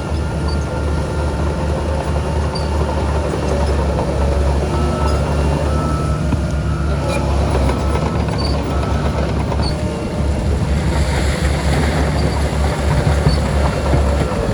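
Heavy diesel earthmoving machinery running steadily, a deep engine rumble with faint short high squeaks now and then.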